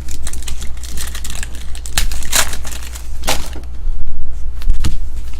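Trading-card pack wrappers crinkling and tearing as packs are ripped open and handled, in irregular rustling bursts.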